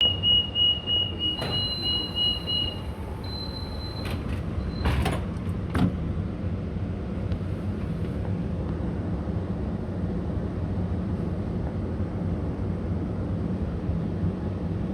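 Xi'an Metro Line 6 train's door-closing warning beeps, a fast pulsing beep for about three seconds overlapped by a higher steady tone. The doors shut with a few knocks around five to six seconds in. Then a steady low rumble of the train running.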